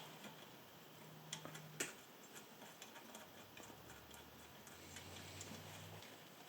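Faint, scattered clicks of hand tools working on metal turbo parts, two of them a bit louder, over a faint low steady hum.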